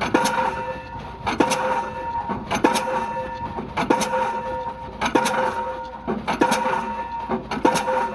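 Diesel pile hammer driving a spun concrete pile: seven sharp blows, evenly spaced about a second and a quarter apart, over a steady machine hum.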